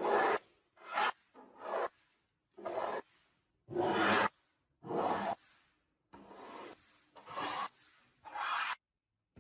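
Hand strokes of abrasive rubbing on a part of an antique meat grinder being restored, with about nine rasping passes at roughly one a second.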